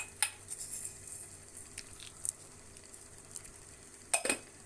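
Chicken pieces frying in oil with onion and spices in a pan, stirred with a spoon that scrapes and knocks against the pan several times. The loudest knock comes near the end.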